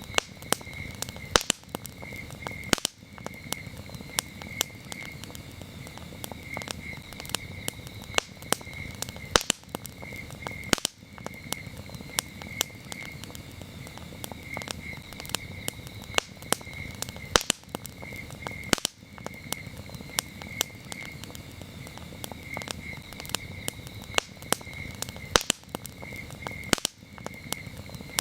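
Campfire of burning wood crackling, with frequent sharp pops and snaps over a low steady rumble of flame. Crickets chirp steadily in short, evenly pulsed trills.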